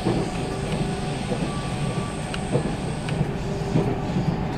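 JR Central 313 series 8000-subseries electric train running at speed, heard from inside the car: a steady rumble and rush of wheels on rail, with a few light clicks.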